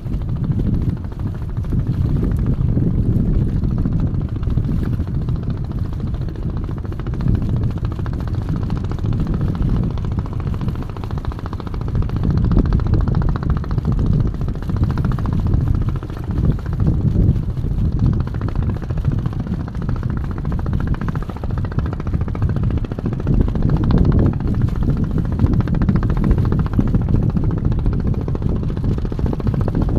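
Strong gusty wind buffeting the microphone: a loud, uneven low rumble that swells and drops with the gusts.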